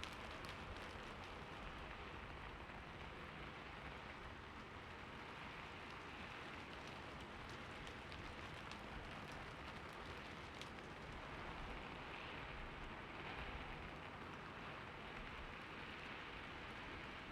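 Steady, soft rain falling, with a faint patter of separate drops.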